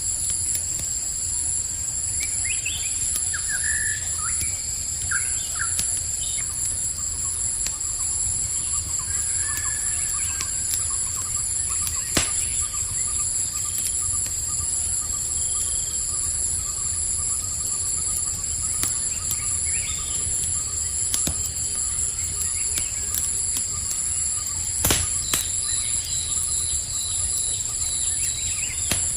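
Campfire crackling with occasional sharp pops, two of them louder, about twelve seconds in and near the end. Under it runs a steady high chirring chorus of crickets and other night insects, with a few short bird chirps a few seconds in.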